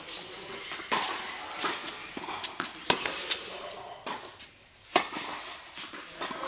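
Tennis balls being struck by rackets and bouncing on an indoor court: a string of sharp pops at irregular intervals, the loudest about three and five seconds in.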